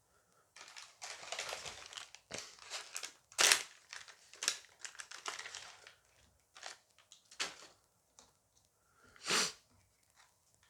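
A foil Dice Masters booster pack being crinkled and torn open by hand, a dense crackling run of rustles lasting several seconds, followed by a few separate sharp clicks as the contents are handled.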